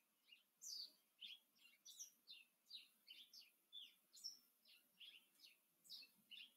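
Faint birdsong: a steady string of short, high chirps, each sliding downward, about three a second.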